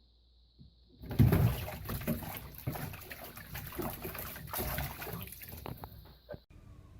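Water splashing and running, starting about a second in and cutting off abruptly near the end.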